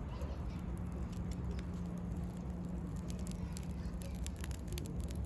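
Wood campfire crackling, with quick irregular snaps and pops over a steady low hum.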